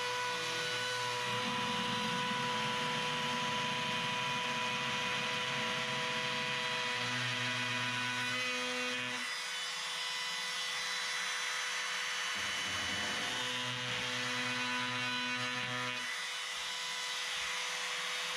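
Electric power tool running steadily as it works wood, with a constant whine and a dense hiss; its low hum shifts in strength a few times.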